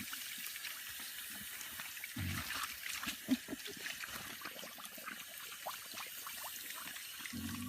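Water from a hose spraying and trickling, with many small clicks and a couple of short low grunts from piglets, one about two seconds in and one near the end.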